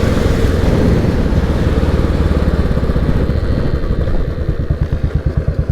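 Royal Enfield Bullet 500's single-cylinder engine with wind rush as the motorcycle slows down. About four seconds in it drops to an even, rapid idle beat.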